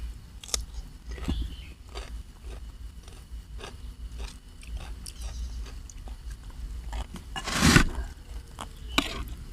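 Close-miked chewing and biting of spicy seafood papaya salad, with crunchy bites and many small wet mouth clicks. A louder noisy burst lasting about half a second comes about three-quarters of the way through.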